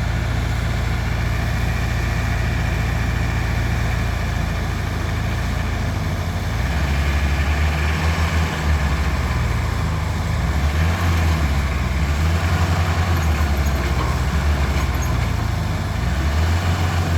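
A large engine runs with a steady low drone. From about six seconds in it turns uneven and pulsing, as if working under varying load.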